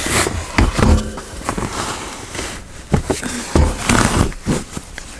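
Rummaging through a pile of craft fabric scraps: rustling and handling clicks, with two heavier thumps, one about a second in and another past the middle.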